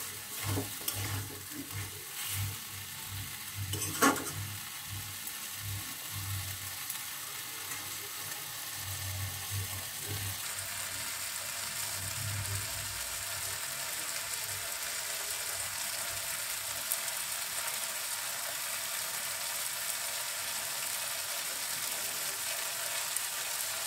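Spiced potato, pumpkin and green-bean pieces frying in a metal kadai, the masala being cooked down. A spatula stirs and scrapes the pan for about the first half, then the stirring stops and only a steady sizzle is left.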